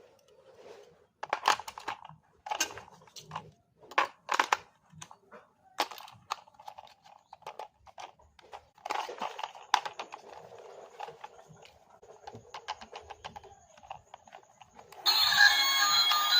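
Packaging being handled and opened: irregular crinkling, tearing and clicking of plastic and cardboard. Music starts suddenly near the end.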